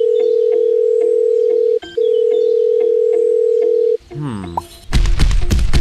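A long steady electronic beep tone, broken once after about two seconds and then held for about two seconds more, over light background music. A short falling cartoon-style sound effect follows, and near the end a loud rapid rattling noise starts.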